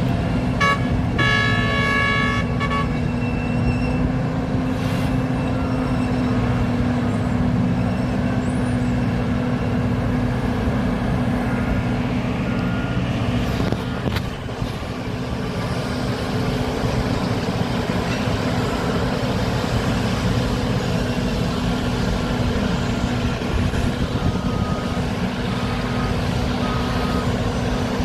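Large diesel mining excavators and haul trucks running steadily under load. A multi-tone horn sounds once for about two seconds near the start, and a series of short beeps comes near the end.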